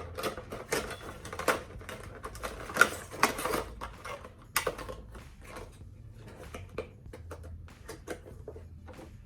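Handling of a Funko Pop figure and its box: irregular clicks and taps, busiest in the first half and sparser after about five seconds.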